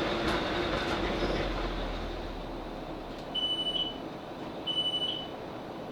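Class 458 electric train's running rumble fading as it slows to a stop. From about three seconds in, a high electronic beep of about half a second repeats every second or so: the door warning tone as the train stands at the platform.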